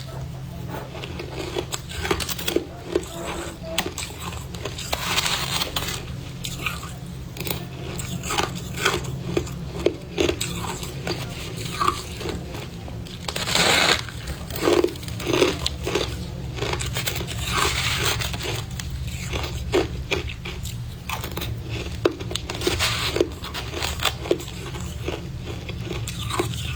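Close-up crunching and chewing of powdery freezer frost ('snow ice') as it is bitten off in mouthfuls: a string of irregular crisp crunches.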